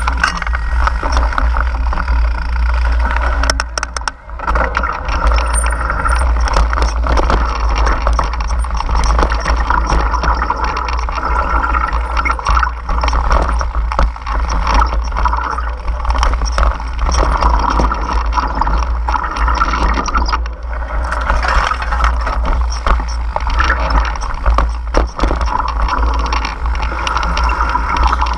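Water drops falling in a dense, irregular patter of ticks over a steady low rumble.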